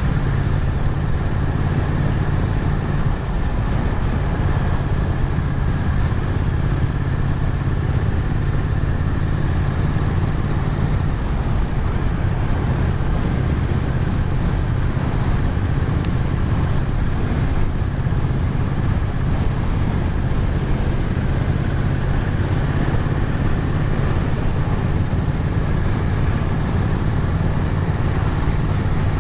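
Motorcycle engine running at a steady cruise, with wind and road noise on the microphone.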